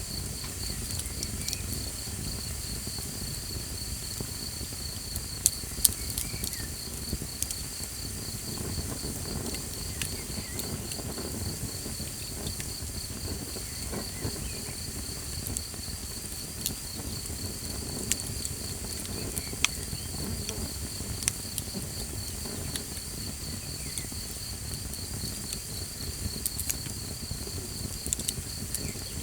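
Crickets trilling without a break in a fast, even pulse, over a crackling campfire with scattered sharp pops, the loudest a few seconds in.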